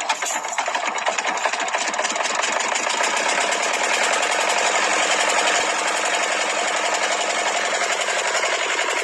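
Small motor of a miniature DIY model tractor running steadily with a fast, even mechanical rattle, swelling a little in the middle.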